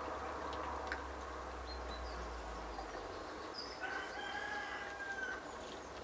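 A single drawn-out bird call, held for about a second and a half, starting about four seconds in and dropping slightly at its end.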